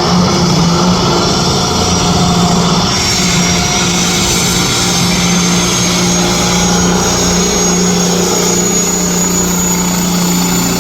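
A boosted vehicle engine held at steady high revs under load, its pitch nearly constant after climbing, with a faint high whine rising slowly in pitch.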